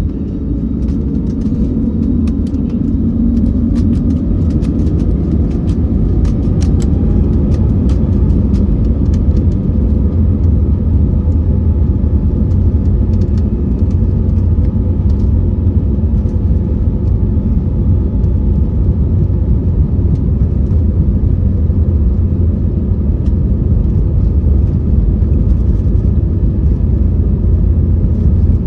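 Airbus A321's turbofan engines at takeoff thrust: a loud, steady rumble that builds over the first few seconds, with a faint rising whine as the engines spool up. A scatter of sharp clicks and rattles comes during the first ten seconds.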